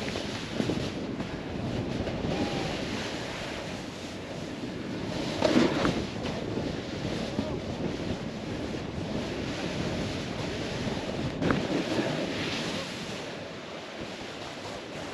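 Snowboard sliding and carving through powder snow, a continuous rushing hiss with wind buffeting the microphone, swelling louder about five and a half seconds in and again around twelve seconds.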